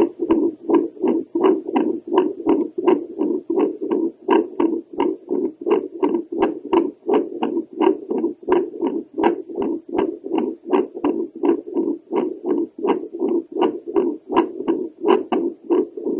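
A handheld home Doppler, its probe held over the aortic valve, picks up a woman's heartbeat as a rapid, even train of whooshing pulses, each with a sharp tick on top.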